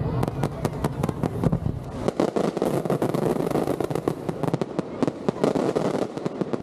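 Fireworks display: many sharp bangs and cracks in quick succession over dense continuous crackling.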